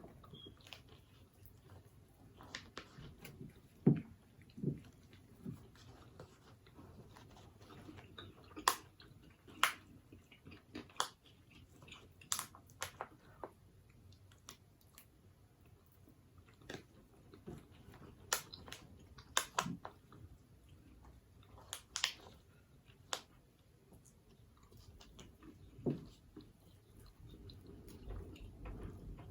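Close-up eating sounds: a person biting into and chewing sweet chili chicken wings, with irregular sharp crunches and wet mouth clicks every second or two.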